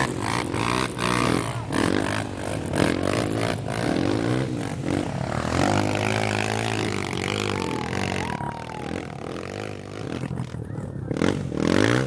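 Off-road trail motorcycle engines revving up and down, the pitch rising and falling repeatedly, with scraping and clattering knocks throughout.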